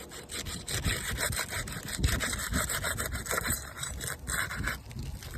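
Roof shingles scraped with rapid, repeated back-and-forth strokes as a tool breaks their glue seals apart.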